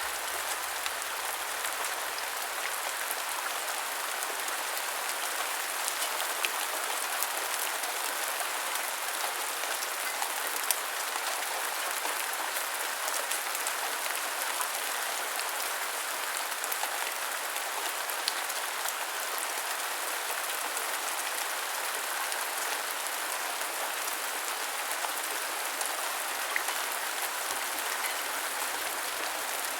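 Heavy rain falling steadily, a dense even hiss with scattered drop ticks on a hard surface.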